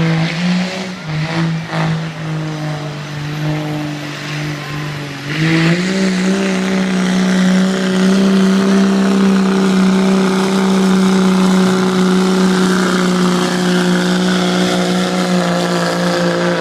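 1996 Dodge pickup engine at full throttle pulling a sled down the track. It surges unevenly at first, climbs to a higher pitch about five seconds in, and then holds a loud, steady high-rev note.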